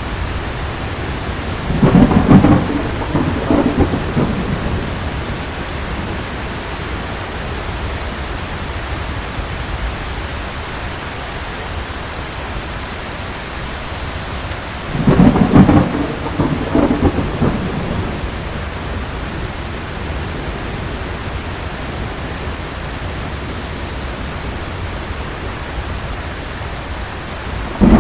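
Steady heavy rain with two rolls of thunder, one about two seconds in and another about halfway through, each rumbling for a few seconds before fading back into the rain.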